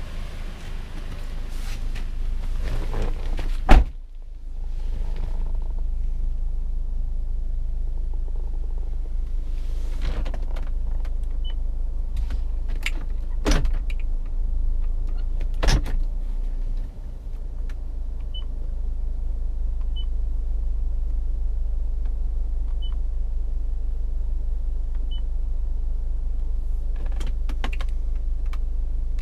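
Vehicle sounds from a 2015 Toyota RAV4 over a steady low rumble. A loud single thump comes about four seconds in, then two sharp clicks, and five faint short beeps are spread through the middle.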